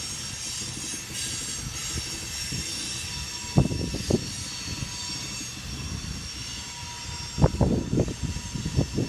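Grain train's freight cars rolling past on the rails: a steady low rumble with faint high-pitched wheel squeal. Sharp knocks from the wheels and couplers come about three and a half and four seconds in, then a run of them near the end.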